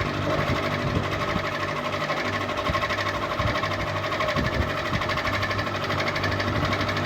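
Electric ceiling fan running steadily: a constant motor hum with a fast, even, rhythmic whir over it.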